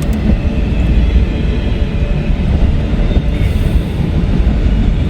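CSX freight train rolling past a grade crossing: a steady, loud rumble of wheels and cars on the rails, heard from inside a parked truck.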